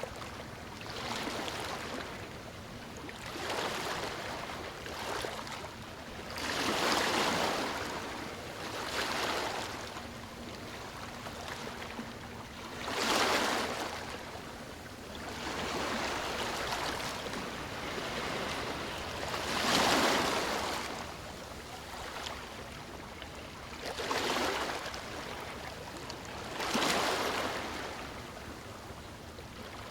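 Sea waves breaking and washing on a shore: a hissing rush that swells and fades every few seconds, with bigger breakers about a quarter, halfway and two-thirds of the way through.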